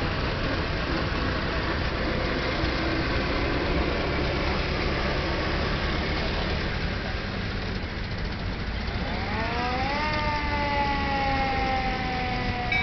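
Old cars' engines running at a crawl, a steady low rumble. About nine seconds in, a siren winds up quickly and then slowly winds down.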